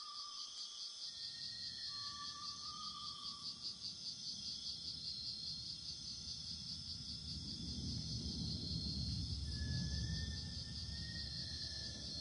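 Crickets chirping in a steady, rapid pulse, with a few short, steady whistled tones. A low rumble comes in about a second in and swells louder near the end.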